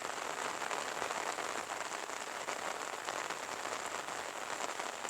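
Steady rain falling, an even hiss made of many small drop impacts that holds without a break.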